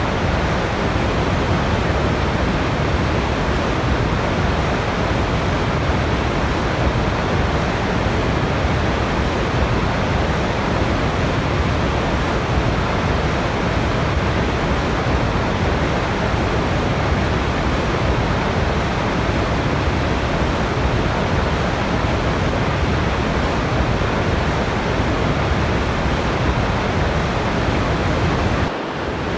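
Steady rushing of a waterfall, an even wash of falling water that dips briefly near the end.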